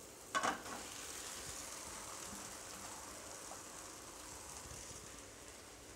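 Onion-tomato masala frying in an aluminium kadai, sizzling steadily. A brief clatter about a third of a second in as cooked rice is tipped into the pan from a metal bowl.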